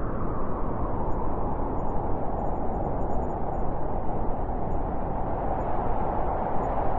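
Blizzard wind blowing steadily: a dense rushing noise with a howling band that swells slightly and then eases.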